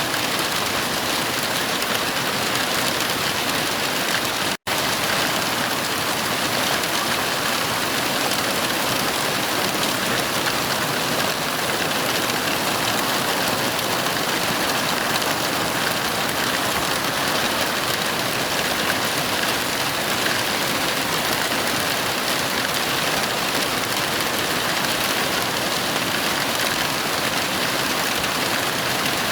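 Heavy rain falling steadily, a dense, even hiss with no thunder. About four and a half seconds in, the sound cuts out for an instant.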